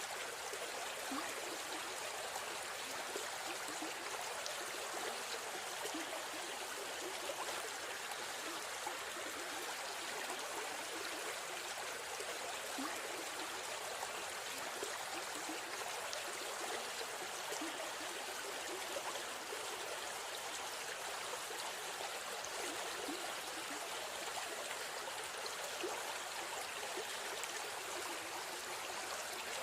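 River stream flowing: a steady rush of water with small splashes and trickles throughout.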